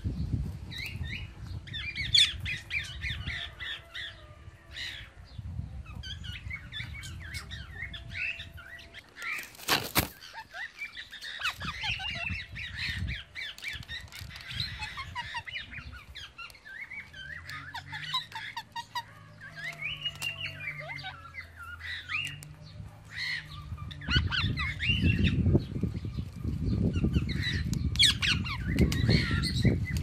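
Birds chirping in many short, quick calls throughout, over a low rumble that is heaviest at the start and in the last few seconds. A single sharp click comes about ten seconds in.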